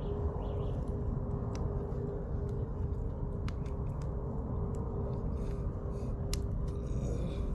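Firewood burning in a campfire, crackling with scattered sharp pops over a steady low rumble.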